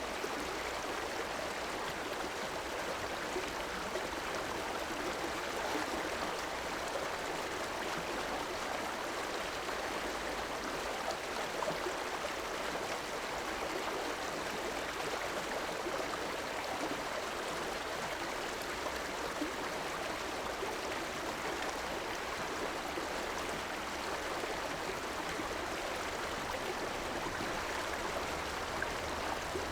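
River water flowing and rushing over stones, a steady, even stream sound.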